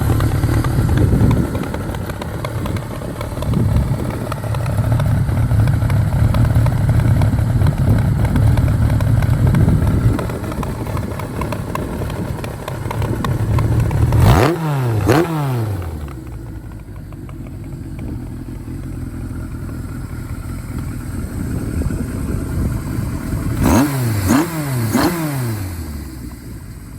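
Kawasaki Z1R's four-cylinder engine idling, with quick throttle blips that rise sharply in pitch and fall straight back: two about halfway through and three in a row near the end.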